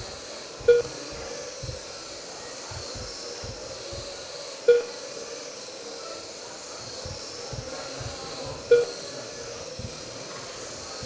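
Lap-timing system beeping as trucks cross the timing line: a short, loud electronic beep about every four seconds, three times, matching the leaders' roughly four-second laps, with a few fainter beeps between. Under it a steady hiss of the RC trucks running on the track.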